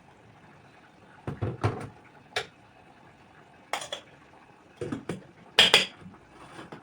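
Kitchenware being handled and set down: a scattered series of short clinks and knocks, the loudest pair about two-thirds of the way through.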